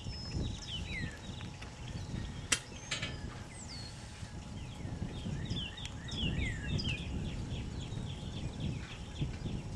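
Small birds chirping again and again in short falling notes, busiest in the second half, over a low uneven rumble. A sharp knock sounds about two and a half seconds in, with a second one half a second later.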